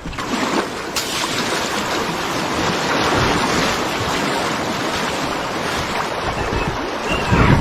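Rushing water of river rapids as a kayak runs through them, with wind on the microphone. There is a sharp knock about a second in and a louder rough burst near the end, as the kayak's hull scrapes over rocks.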